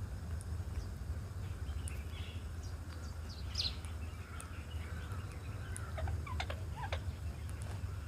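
Birds calling: a scattering of short chirps and quick falling squeaky notes, thickest in the latter half, over a steady low rumble.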